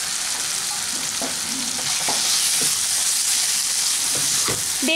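Fresh chhana (homemade curd cheese) frying in oily spice masala in a kadai, sizzling steadily while a wooden spatula stirs it, with a few soft scrapes. This is the chhana being sautéed into the masala.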